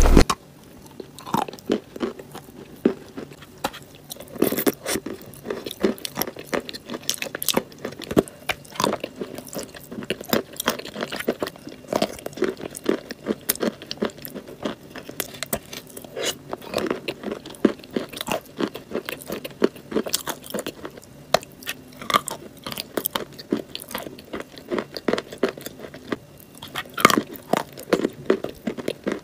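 Close-up mouth sounds of chewing a green clay paste: a steady run of irregular crunches and clicks, several a second.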